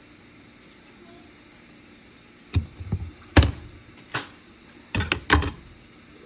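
Kitchen items being handled on a countertop: about six sharp knocks and clunks, bunched in the second half.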